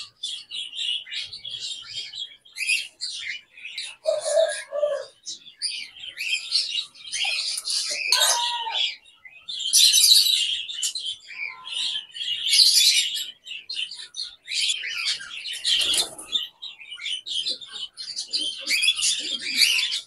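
Many small cage birds chirping and chattering continuously in high, quick calls, an aviary chorus.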